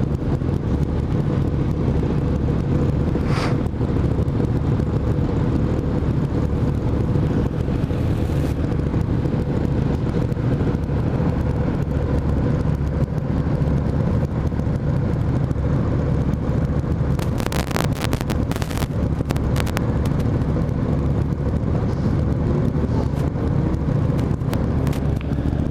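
Motorcycle engine running steadily at cruising speed, with wind rushing over the microphone. A quick cluster of clicks about seventeen to nineteen seconds in.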